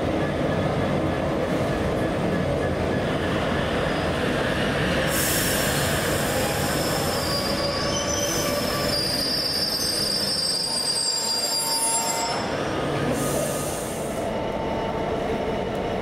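A train running on the rails, a steady noise throughout. From about five seconds in, several high-pitched squealing tones from its wheels come and go, dying away near the end.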